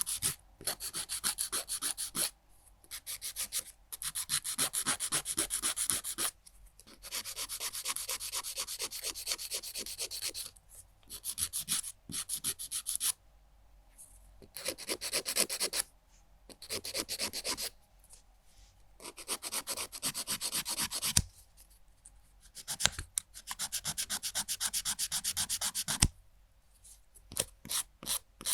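Nail file rasping rapidly back and forth across fingernails, in runs of quick strokes broken by short pauses, with slower, separate strokes near the end.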